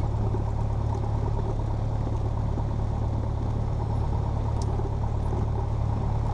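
Cessna 172P's four-cylinder Lycoming engine running steadily at low taxi power, heard inside the cabin as an even drone.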